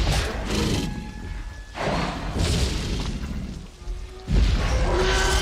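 Dramatic film-style music with heavy booms that come in suddenly three times, about two seconds apart.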